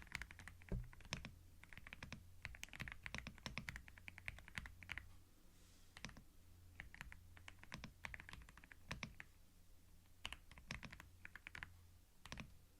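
Typing on a computer keyboard: quick runs of key clicks in bursts with short pauses between them, recorded close-up on a binaural microphone over a faint steady low hum.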